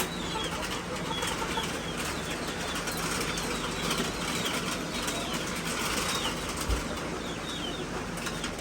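Chickens flapping their wings as they are let out into a crowded room, with many short, falling high-pitched peeps throughout. A dull thump sounds about seven seconds in.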